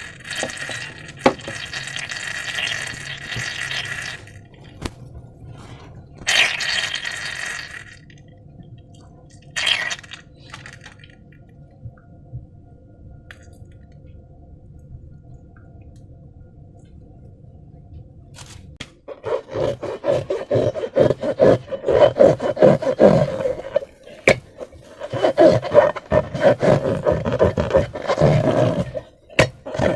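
Thick slime being worked by hand, wet and squelching. A few short bursts of squishing are followed by a quiet spell, then dense, rapid squelching and popping through the last third.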